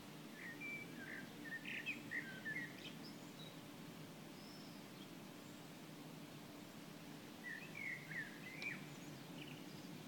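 Small birds chirping in two short bouts of quick twittering notes, one starting about half a second in and another near the end, over a faint steady low hum.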